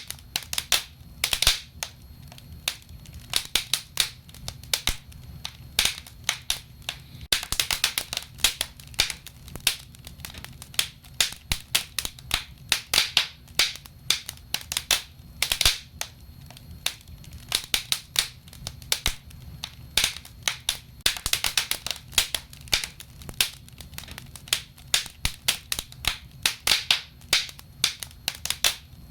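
Wood fire crackling in a fireplace: irregular sharp pops and snaps, thickening into dense clusters every few seconds, over a low steady rumble.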